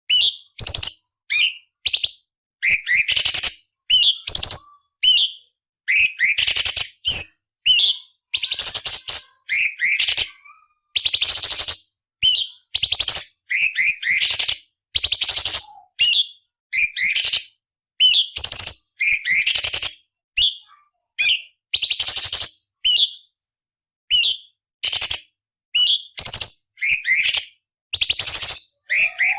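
Cucak cungkok leafbird singing a rapid, varied song: short sharp whistled notes that sweep downward, mixed with harsh scratchy rasping phrases, separated by brief pauses.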